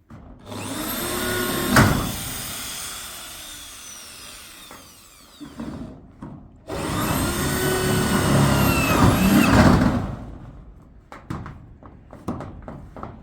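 A power tool motor run in two bursts of a few seconds each, its whine rising and then falling each time, with a sharp knock near the start of the first burst.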